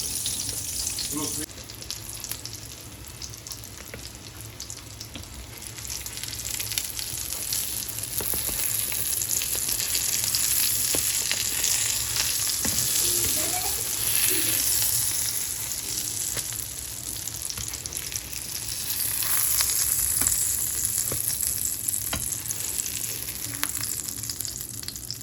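Tortang talong (eggplant omelette) sizzling as it fries in a pan, the sizzle growing louder and easing off a few times.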